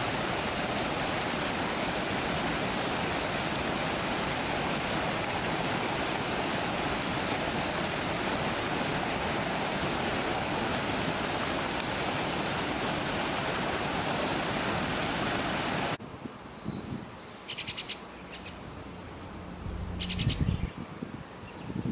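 Water pouring over a river weir in a loud, steady rush. It cuts off suddenly about sixteen seconds in, giving way to a few short, rapid, chattering calls of common starlings at their nest.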